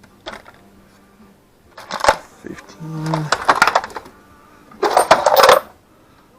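Metal tools and sockets clattering and clinking as someone rummages through a toolbox in search of a socket, in three bursts about two, three and a half, and five seconds in.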